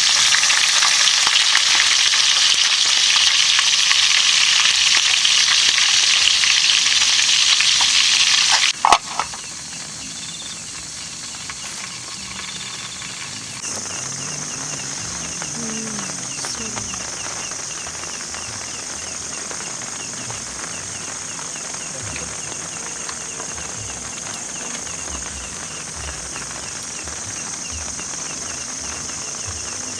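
Oil sizzling loudly in a frying pan as food fries, a steady hiss that cuts off abruptly about nine seconds in with a short click. A much quieter steady outdoor hiss follows, with a thin high-pitched drone joining partway through.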